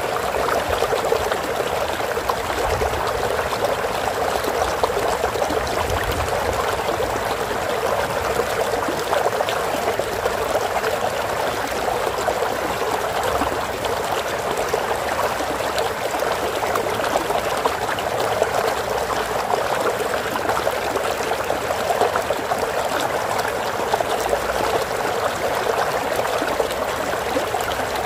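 Flowing stream water running and trickling steadily, a constant babbling splash.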